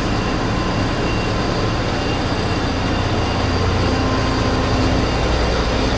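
Heavy engine running steadily: a loud low drone with a thin steady whine above it, a further low note joining about halfway through.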